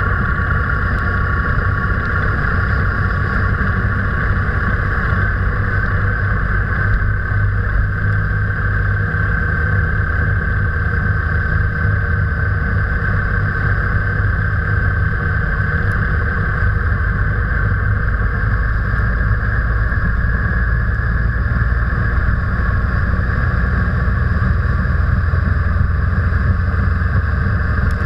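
Steady engine and road noise of a car being driven, holding an even pace with no gear changes or revving.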